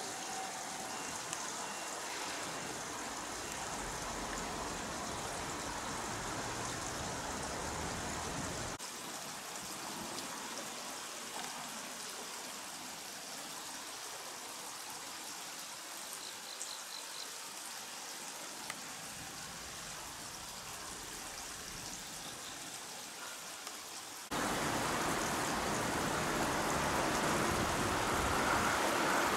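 Steady outdoor hiss that jumps in level at cuts about 9 and 24 seconds in. Over the last few seconds it grows louder as a Shinano Railway 115 series electric train approaches along the track.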